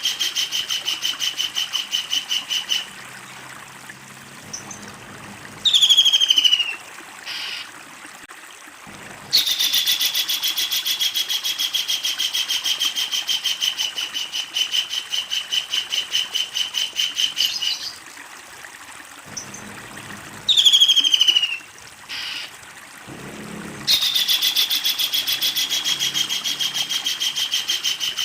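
Kingfisher calling: long runs of rapid, evenly repeated high notes. Twice the runs are broken by a short, loud falling call.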